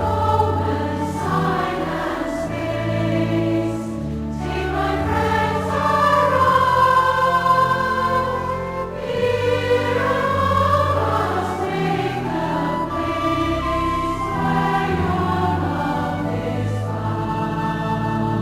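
A choir singing a hymn, accompanied by long held low instrumental notes.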